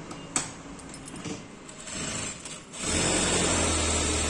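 Musee electric sewing machine: a sharp click near the start, then the machine starts stitching about three seconds in and runs steadily at speed.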